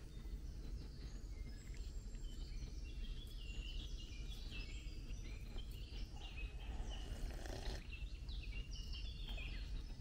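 Wild birds chirping and trilling, with the calls becoming more frequent from about three seconds in, over a steady low background rumble.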